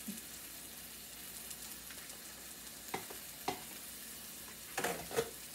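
Butter frying with a quiet, steady sizzle in a stainless steel pan under a grilled ham and cheese sandwich. A few light clicks come about three seconds in and again near the end.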